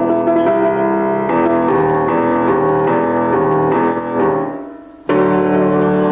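Piano being played: a run of changing notes and chords, the sound dying away about four and a half seconds in, then a new chord struck sharply about five seconds in and left ringing.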